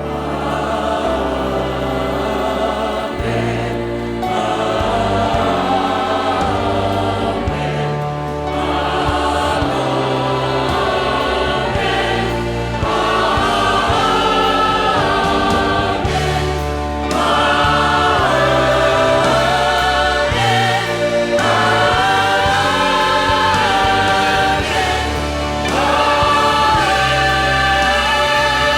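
Church worship music: a choir singing a gospel-style song over instrumental accompaniment with held bass notes.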